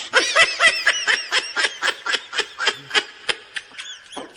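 High-pitched snickering laughter, a fast run of short laughs about four a second, growing fainter near the end.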